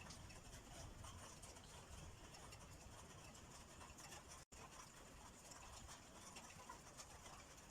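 Faint light rain pattering, a fine crackle of drops. The sound cuts out for an instant a little past halfway.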